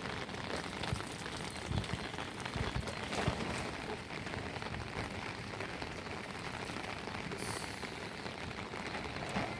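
Steady rain falling, a dense patter of drops, with a few soft low thumps about two to three seconds in.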